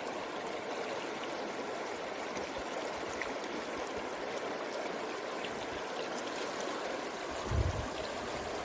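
River water flowing steadily over a stony bed, a continuous rushing. Near the end a brief low rumble rises over it.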